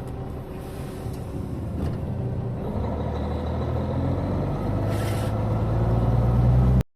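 Heavy diesel engine running and growing steadily louder, with a short hiss about five seconds in; the sound cuts off suddenly near the end.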